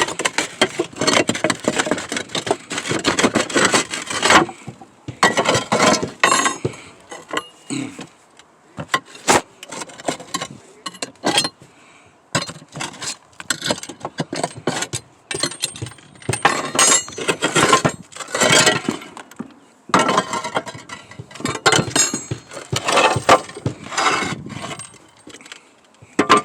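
Roof tiles being lifted off and handled, clattering and clinking against each other in irregular bursts with short pauses between.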